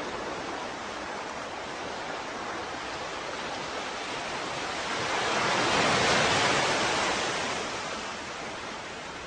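Ocean waves washing onto a shore: a steady hiss of surf, with one wave swelling up about five seconds in and fading away over the next few seconds.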